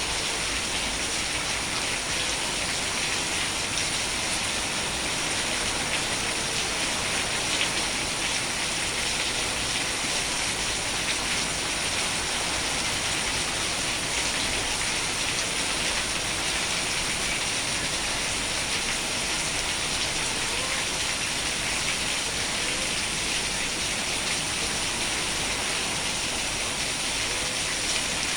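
Steady rain falling, an even, unbroken hiss of many drops with a faint crackle of individual drops hitting a surface.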